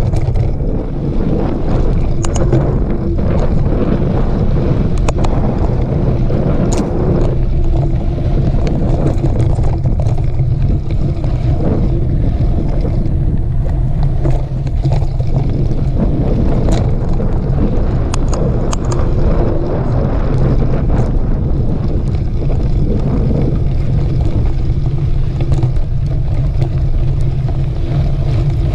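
Wind rushing over a camera microphone while riding a mountain bike on a dirt trail, a steady deep rumble with scattered sharp clicks and rattles from the bike and trail.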